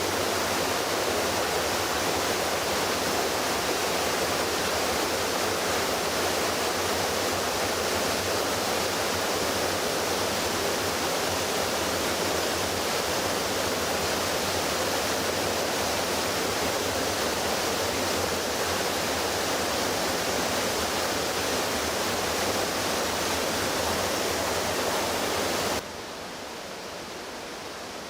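Floodwater rushing in a steady, dense wash of sound. It drops suddenly to a quieter rush near the end.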